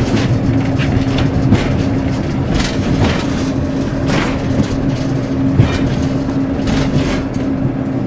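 Class 141 Pacer railbus running along the line, heard from inside the driving cab: a steady rumbling drone with a constant hum, broken by irregular clicks and knocks from the wheels on the track.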